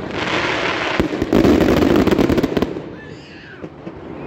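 Fireworks fired from a tower close overhead: a loud rushing of launching sparks that thickens into rapid crackling about a second in, then dies away after about two and a half seconds.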